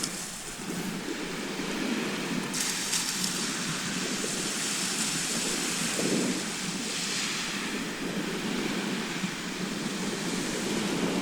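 Sea surf: a steady rush of waves on the shore, with the hiss of breaking water swelling twice, once about a quarter of the way in and again past the middle.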